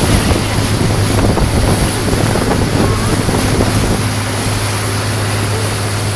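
Motorboat engine running steadily with a low hum, under the rush of water and wind noise.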